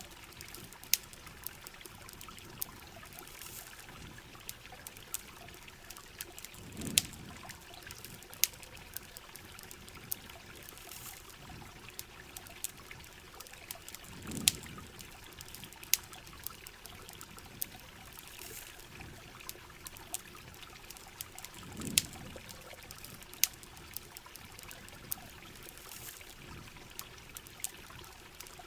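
Heavy rain with water trickling and dribbling, over a steady hiss, with sharp campfire crackles scattered throughout. A soft low swell comes back about every seven and a half seconds.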